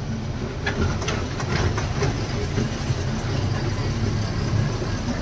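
Loaded lorry's diesel engine idling at a toll gate, a steady low drone, with a few faint clicks about a second in.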